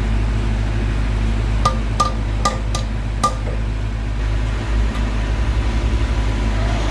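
Five light metallic taps, with a short ring after each, over a steady low machine hum. Later a fast low fluttering pulse comes in for about two seconds.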